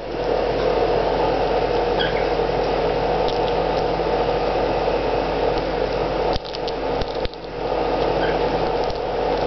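Steady machine hum and whir filling a small room, with a few faint clicks and short high blips.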